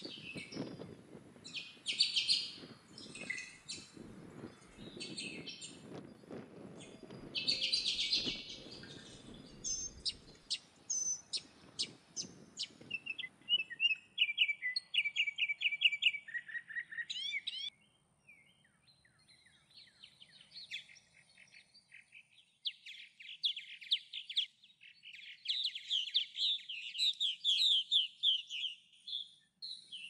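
Songbirds calling and singing: scattered short, harsh chirps over a low background rumble in the first half, then rapid trilled runs of quick repeated notes that grow longer and louder near the end.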